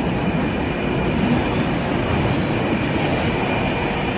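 Taipei Metro C321 train running into an underground station, a steady rumble of wheels on rail with a faint whine above it.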